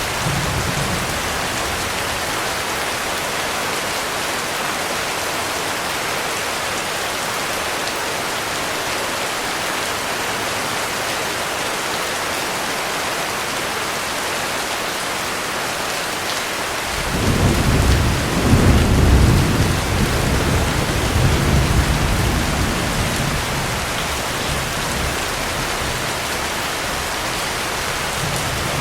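Heavy rain falling steadily. About two-thirds of the way in, a long low rumble of thunder builds, peaks and fades away over several seconds.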